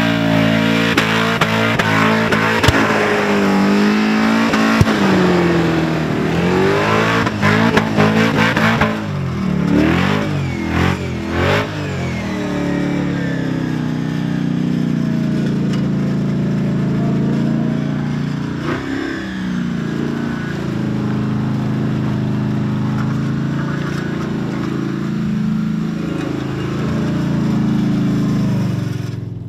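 Supercharged Holden Commodore burnout car's engine revving hard up and down with its rear tyres spinning, a run of sharp cracks about ten seconds in, then held at steady high revs through a long burnout.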